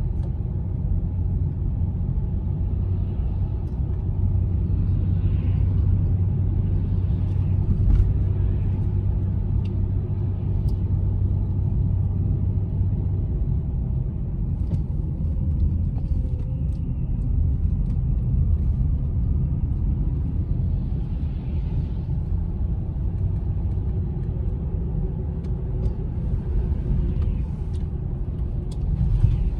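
Steady low road and engine rumble inside the cabin of a moving car, with a low hum that fades out about halfway through. There is a short knock about 8 seconds in and another near the end.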